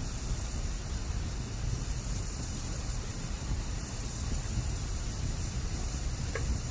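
Bamboo campfire burning with a steady rushing hiss and low rumble, one small crackle about six seconds in.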